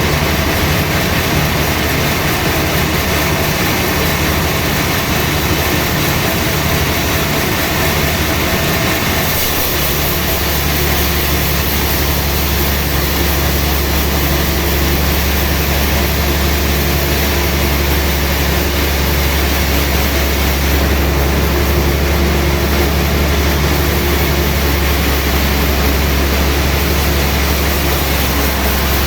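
Sawmill machinery running steadily with a loud, even hum. About nine seconds in, the low hum grows stronger and steadier.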